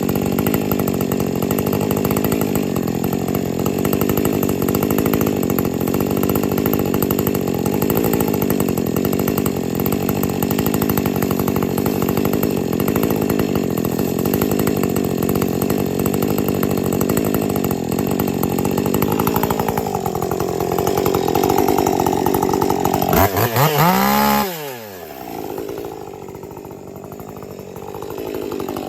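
A 50 cc-class two-stroke chainsaw cutting steadily through maple under load. About 24 seconds in it revs up out of the cut and drops to idle, then is revved again near the end.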